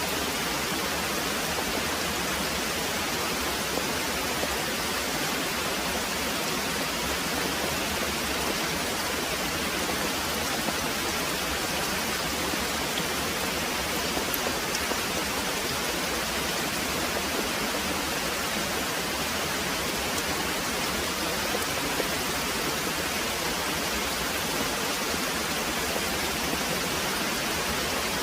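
Very heavy rain pouring down in a steady, even hiss, with no thunder standing out.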